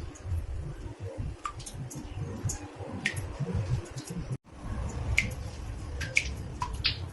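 Water drops falling into a bathtub, each one a short plink, landing irregularly about one or two a second over a low rumble. The sound cuts out for an instant a little past the middle.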